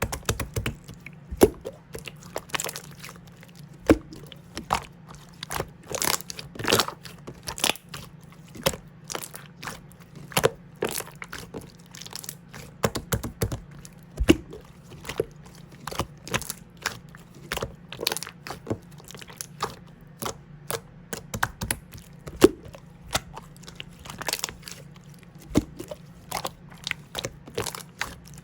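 Red clear slime being squished and pressed by hand, giving irregular sticky clicks and pops, several a second, over a faint steady hum.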